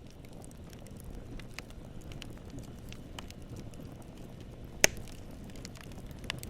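Wood campfire crackling: a low steady rumble of flames with small pops scattered throughout and one loud, sharp pop of burning wood about five seconds in.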